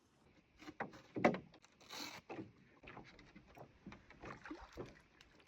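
Irregular knocks and short scrapes from a canoe at a beach landing, with one longer scrape about two seconds in.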